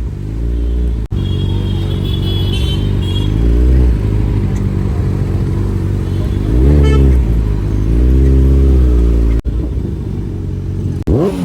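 Sport motorcycle engine running and being revved in several short blips, its pitch rising and falling each time. The sound breaks off abruptly twice.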